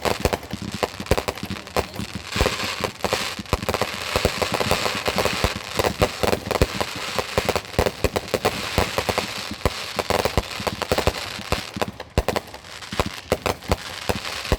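Consumer fireworks going off in a dense, continuous barrage: many sharp bangs a second overlapping with crackling, easing briefly about twelve seconds in.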